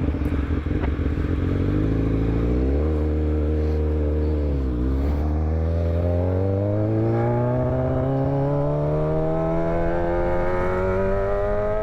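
Motorcycle engine pulling under acceleration while riding: the note holds level, rises about three seconds in, dips briefly near five seconds as the revs drop, then climbs slowly and steadily through a long pull.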